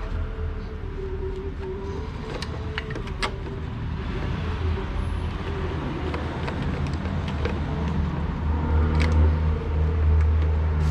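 A motor running steadily with a low hum that grows louder toward the end, with a few light, sharp clicks scattered through it.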